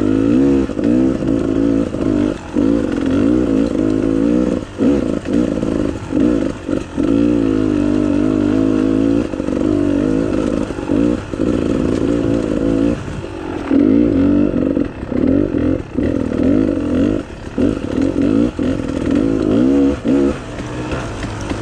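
Off-road motorcycle engine being ridden, its pitch rising and falling constantly as the throttle is opened and closed, with many short dips where the throttle is shut.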